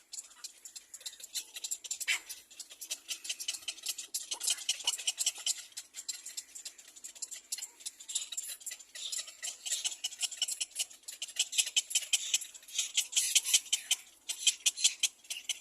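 Little black cormorants at the nest giving a rapid, high-pitched clicking chatter, uneven and dense. It grows louder and busier about halfway through.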